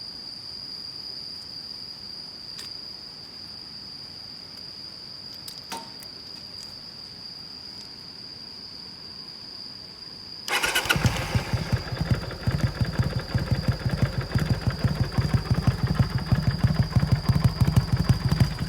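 Custom Kawasaki Vulcan 400 Classic's V-twin starting suddenly about ten seconds in, then idling with an even, pulsing exhaust beat. Before it, only a steady high-pitched whine and a few faint clicks.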